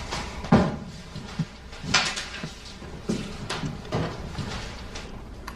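Dishes and takeaway containers being handled and set down: a string of separate knocks and clatters, about one a second.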